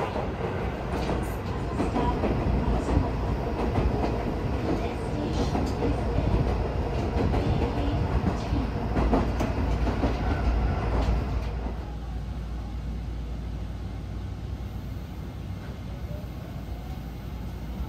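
Local electric train running along the line, heard from on board: a steady rumble with occasional wheel knocks over the rails. About twelve seconds in it becomes quieter and duller.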